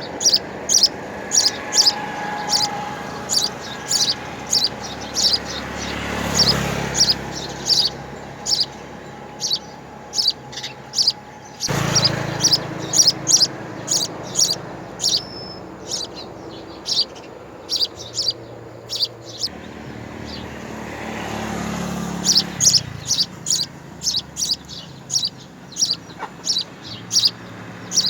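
Small birds chirping at a nest: runs of short, high chirps at about two or three a second, with a quieter stretch midway. A low background rush swells up and fades twice.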